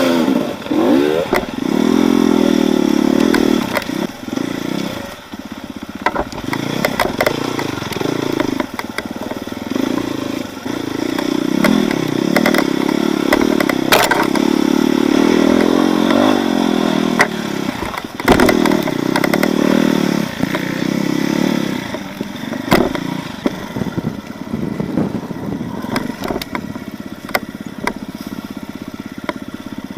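Off-road motorcycle engine revving up and down as it is ridden over rough ground. The revs dip about five seconds in and stay lower near the end. Sharp knocks and clatter are scattered through, the loudest about halfway.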